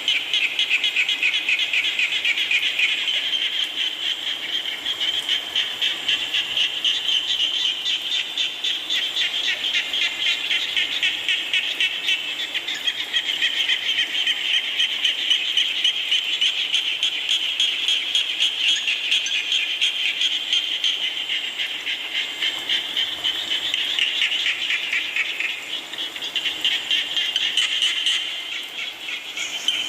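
A chorus of frogs calling: a dense, fast pulsing trill that swells and eases, thinning briefly near the end.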